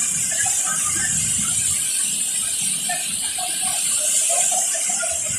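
Waterfall: falling water making a steady, bright hiss, with faint distant shouts and voices over it.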